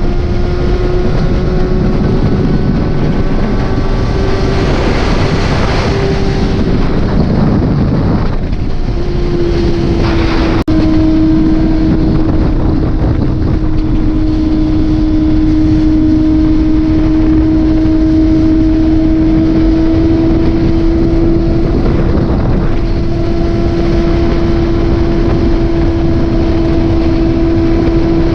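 Motorcycle running at a steady cruising speed on the road, its engine a constant, even hum under heavy wind rush. The rush swells louder for a few seconds about a third of the way in.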